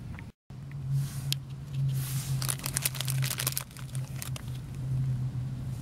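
Crinkling and crackling of a plastic snack packet being handled and pulled open, in bursts of crisp rustles, over a steady low hum.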